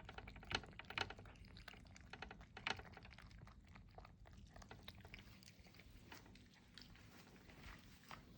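A cat eating its food: a faint run of quick, irregular clicks of chewing, with a few sharper ones in the first three seconds.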